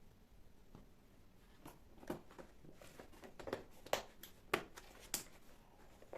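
A scatter of light clicks and knocks, a dozen or so over a few seconds, the two loudest about four seconds in, like household objects being handled and set down.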